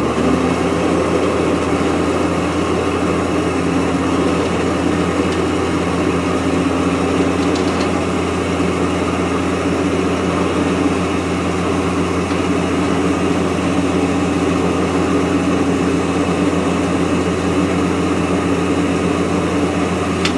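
Harbor Freight 1500 lb electric cable hoist running with no load on the hook: a steady motor hum and gear whine that starts suddenly, runs for about twenty seconds, then cuts off with the pitch sagging as the motor stops.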